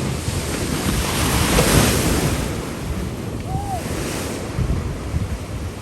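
Ocean surf breaking, a wash of noise that swells about a second and a half in and then eases off, with wind buffeting the microphone.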